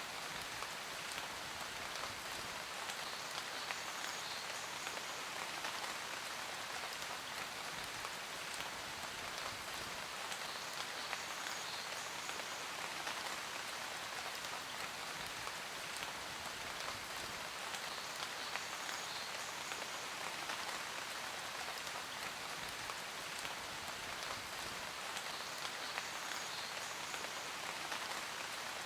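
Steady rain falling, a dense patter of individual drops over a constant hiss.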